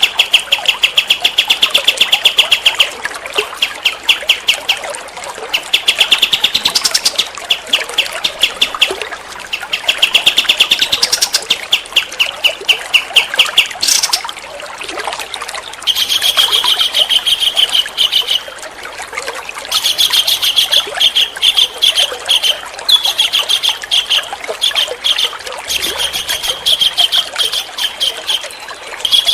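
A songbird singing fast runs of rapid, evenly repeated chirps, each run lasting a couple of seconds, with short pauses between runs.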